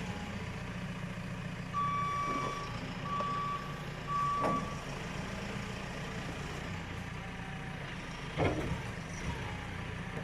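A machine's reversing alarm beeps three times at one steady pitch over a steadily running engine. Two loud knocks follow, the heavier about eight seconds in.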